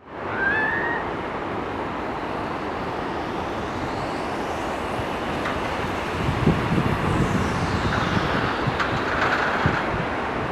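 Rushing wind on the microphone during a fast ride across the canyon, a steady loud noise. A faint whine under it rises in pitch over the first half and falls again in the second.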